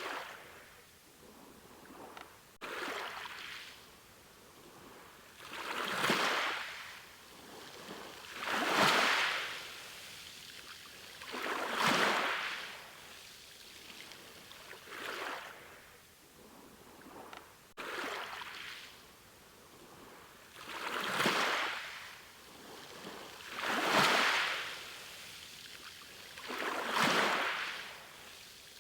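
Ocean waves washing in, each swell of surf rising and falling away about every three seconds in an even rhythm.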